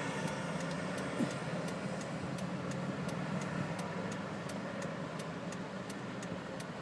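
Steady hum of a vehicle engine running, heard from inside a car, with a fast even ticking about two to three times a second over it.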